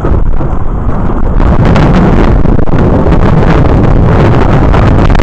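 Loud thunderstorm noise, a dense roar that overloads and distorts the camera's microphone, swelling about a second and a half in.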